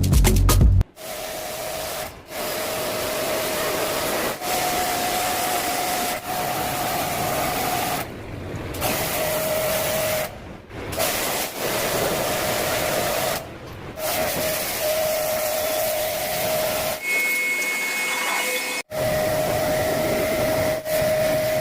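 Portable pressure-washer jet spraying water to clean an air conditioner: a steady hiss of the spray over the pump's whine, stopping briefly several times as the trigger is let go and starting again.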